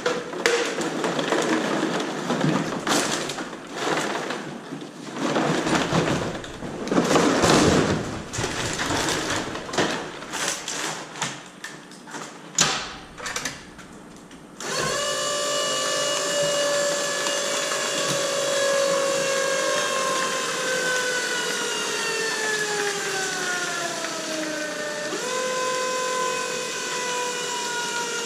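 Irregular crackling and clattering for about the first half. Then the mini baler's motor starts suddenly and runs with a whine that falls steadily in pitch as the ram presses down on the PET plastic bottles, jumping back up in pitch near the end.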